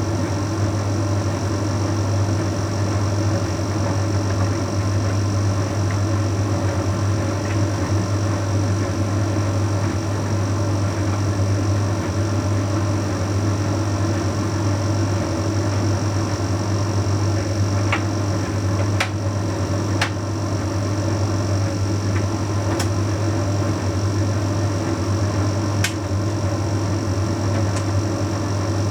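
Bosch Series 6 heat pump tumble dryer running mid-cycle: a steady low hum and whir of its motor and drum turning, with a few light clicks or taps in the second half.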